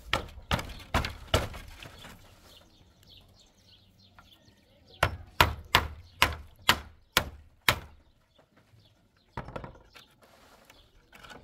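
A hand tool striking a hard material in quick runs of sharp blows: four blows at the start, a pause, then about seven more, a little over two a second. One last blow comes near the end.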